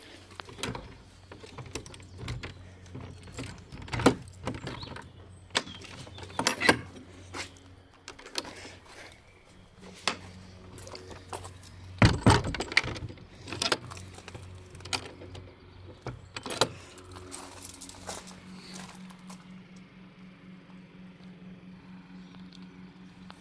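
Handling noises: keys jangling and a run of sharp knocks and clunks, loudest about 4, 6.5 and 12 seconds in, over a steady low hum. About two-thirds of the way through the hum gives way to a steadier, higher-pitched tone.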